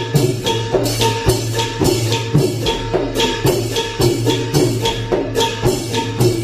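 Thai klong yao long-drum ensemble playing, with cymbals clashing on a steady beat of about two strokes a second over the drums.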